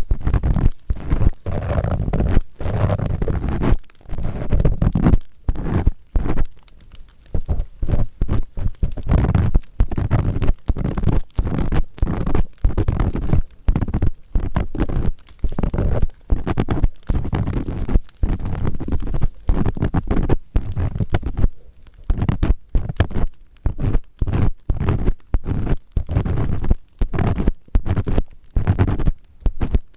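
Ear pick scraping firmly against the ear of a 3Dio binaural microphone: close, rough scratching strokes with a heavy low rumble, stopping and starting many times over.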